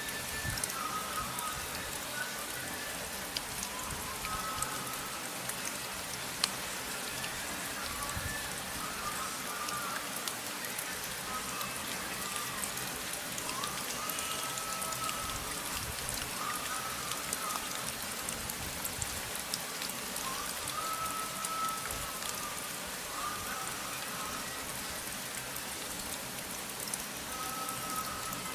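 Steady rain falling on a surface, with scattered sharper drop ticks.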